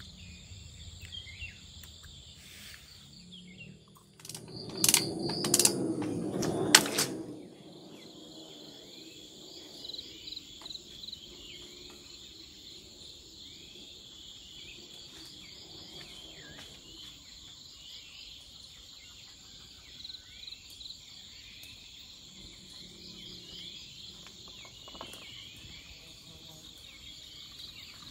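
Forest insects, crickets among them, chirring steadily, with repeated high chirps. About five seconds in, a few seconds of louder knocking and rustling handling sounds, with two or three sharp clicks.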